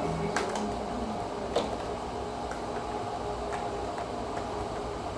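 Vacuum cleaner running steadily, with a few sharp clicks over it, the loudest about one and a half seconds in.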